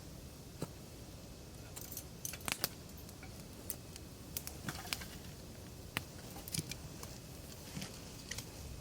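Wood campfire crackling, with irregular sharp pops and snaps from the burning wood, a quick cluster of them about two seconds in.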